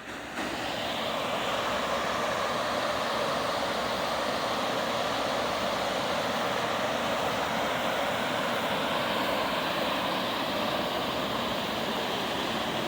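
Waterfall: a steady rush of falling water, rising to a louder level about half a second in and then holding even.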